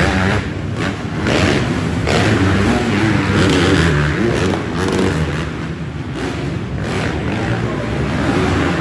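Dirt-bike engines revving up and down, their pitch rising and falling again and again.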